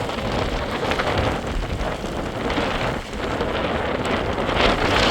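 Heavy rain falling: a dense hiss that swells and eases, dipping briefly about three seconds in and loudest near the end.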